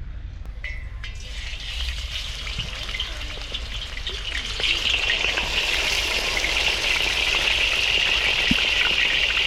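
Food frying in hot oil: a steady sizzling hiss that builds after about a second and grows louder about halfway through.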